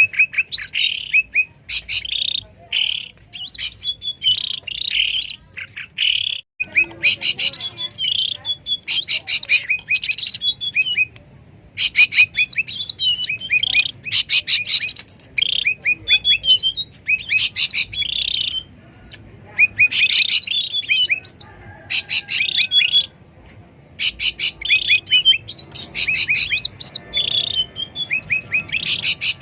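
Cucak ranting bulbuls singing and calling loudly and almost without break: busy chattering phrases mixed with quick runs of short, clipped notes, with a couple of brief pauses.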